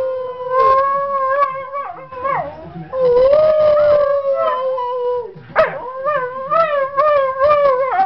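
A dog howling in long drawn-out notes that waver slightly in pitch. The howl breaks off twice, and a short sharp sound comes about five and a half seconds in.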